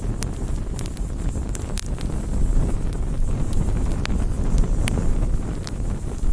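Wood campfire burning: a steady low rush of the flames with sharp crackles and pops from the burning wood, about one a second.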